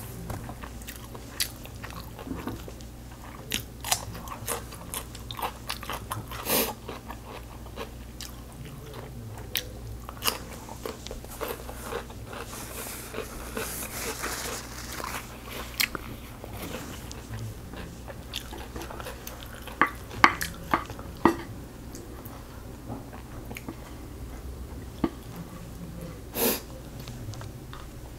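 Chewing of stir-fried kimchi (kimchi bokkeum) and rice: a series of irregular mouth clicks and crunches, with a few louder ones about twenty seconds in.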